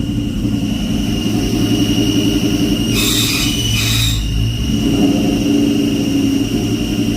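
2003 Mustang SVT Cobra's supercharged V8 running with a steady high-pitched whine, and a harsh noisy burst about three seconds in that lasts about a second. It is the terrible clutch noise the owner suspects is a failing throwout bearing.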